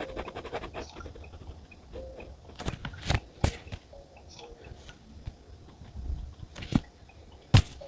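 Several sharp clicks and taps of stationery being handled on a desk, the loudest near the end, over faint background music.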